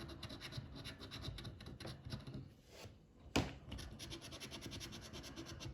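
Rapid scraping strokes as the coating is scratched off the panels of a scratch card, with one sharper tap about three and a half seconds in.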